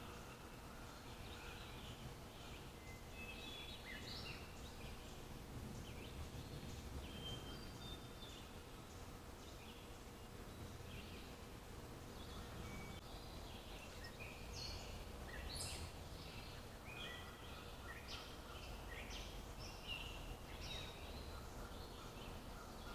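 Several small birds chirping and calling, with short high whistles and trills that come thicker in the second half, over a low steady outdoor rumble.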